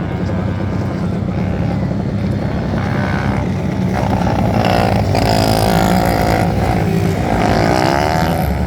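500cc speedway motorcycles racing, their single-cylinder engines making a steady low drone. From about four seconds in, the engine notes climb and fall as the bikes rev hard and pass, louder toward the end.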